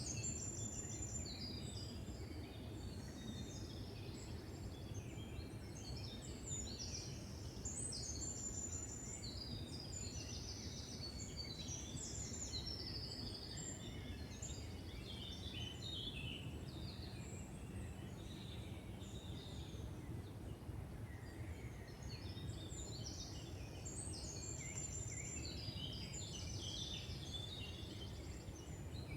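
Several songbirds singing in woodland, overlapping short high phrases and trills, with a brief lull in the song about two-thirds of the way through. A steady low rumble of background noise runs underneath.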